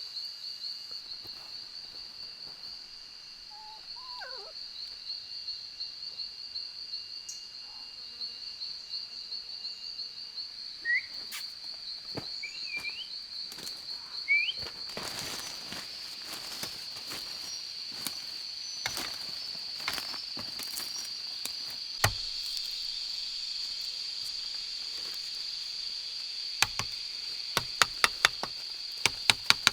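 Rainforest insects trilling steadily in a high, pulsing chorus. A few short rising chirps come in about a third of the way through, and sharp clicks and knocks come in a cluster near the end.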